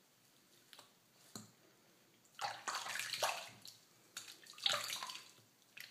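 Bathwater splashing as a cat is washed in a bathtub: a few faint drips at first, then irregular bursts of splashing from about two seconds in.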